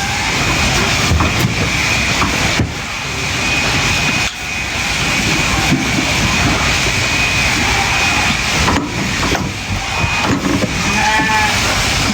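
Electric sheep-shearing clippers running steadily through a fleece, a constant motor buzz with a faint high whine. A sheep bleats briefly near the end.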